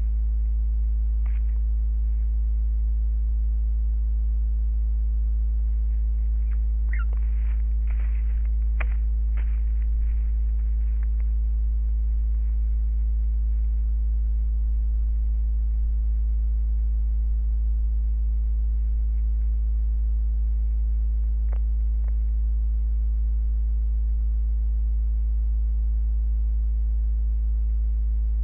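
Loud, steady low electrical hum with evenly spaced overtones. A few faint, short, high chirps come through about seven to eleven seconds in, and one more around twenty-one seconds.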